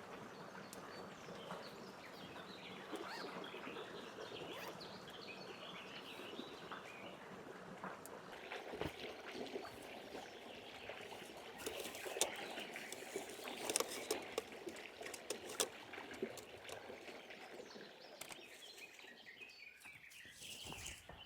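Faint outdoor ambience: a steady background hiss with scattered chirps and small sharp clicks and rustles, the clicks busiest between about 12 and 16 seconds in.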